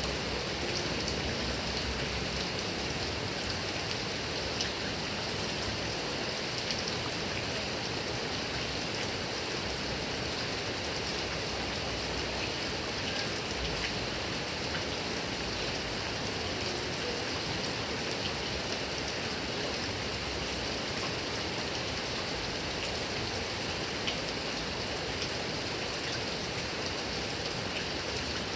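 Heavy rain falling steadily on grass and trees, an even hiss with scattered individual drop ticks.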